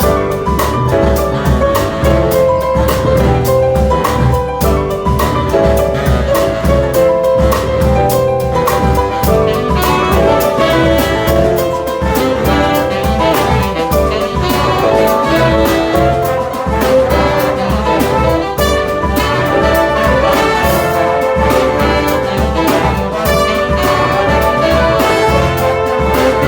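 Big-band jazz orchestra playing an instrumental introduction: trumpets, saxophones and trombones in ensemble over bass and a steady drum-kit beat.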